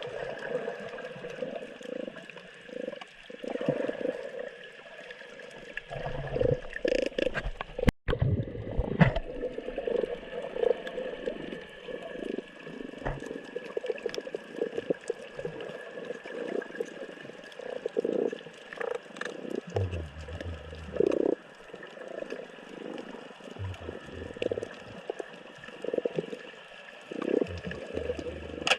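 Water sloshing and gurgling in irregular swells, with one sharp knock about eight seconds in.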